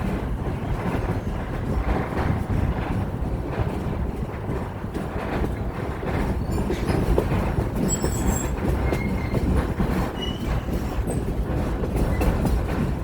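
Heritage excursion train running on the rails, a steady loud rumble of wheels and car, with a few brief high squeaks about eight to ten seconds in.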